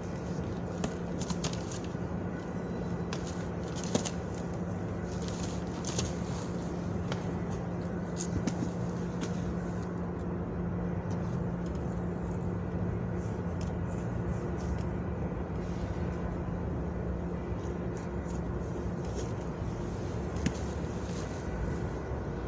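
Subway station ambience: a steady low mechanical hum over a noisy background, with scattered light clicks and knocks.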